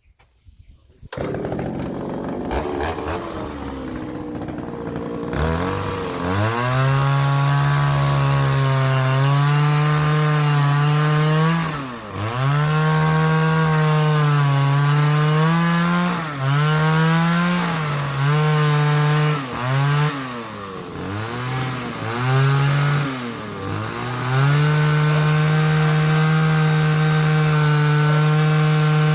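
Chainsaw running at high speed cutting wood, its note dipping sharply several times as it bogs under load in the cut, then holding steady near the end.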